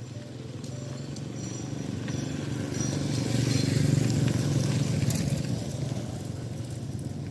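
A motor vehicle passing by: a low engine hum grows louder to a peak about four seconds in, then fades away.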